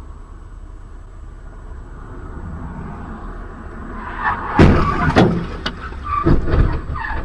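Vehicle driving with a steady low road rumble, then, about four and a half seconds in, a quick series of loud bangs and crunches, the sound of a vehicle collision.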